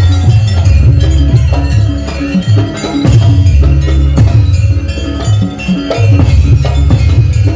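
Loud live jaranan buto accompaniment: a gamelan-style ensemble of drums and gongs playing a quick repeating pattern of pitched notes over heavy low beats.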